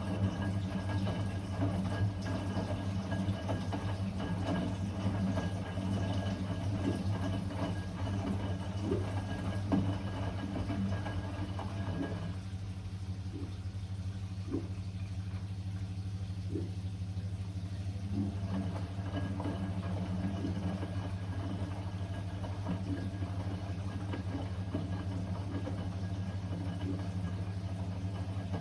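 Blomberg WA391 washing machine running partway through a 90 °C boil-wash programme: a steady motor hum with scattered light knocks. The higher part of the sound drops away for several seconds about twelve seconds in, then returns.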